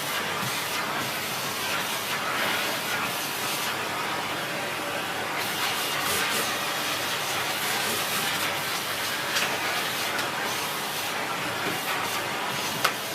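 Miele S6 Cat and Dog cylinder vacuum cleaner with a 2000 W motor running steadily, drawing air through its hose and dusting brush with a steady hiss. A few brief clicks and knocks sound over it, the sharpest near the end.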